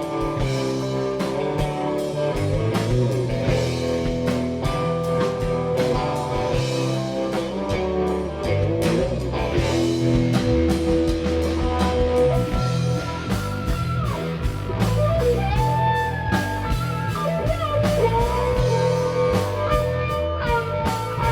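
Blues-rock band playing an instrumental passage: electric guitar over bass and drums, with held lead notes that bend and slide in pitch in the second half.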